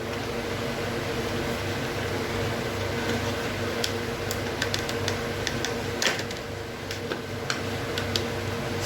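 Steady mechanical hum, like a running fan or cooler, with scattered small clicks and taps in the second half.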